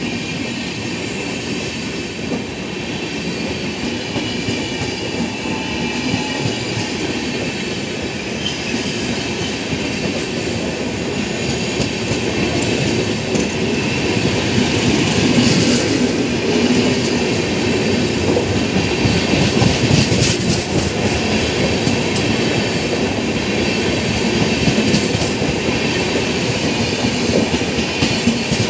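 Coaches of an Indian Railways express train rolling past along the platform, wheels running steadily on the rails, getting louder from about halfway through.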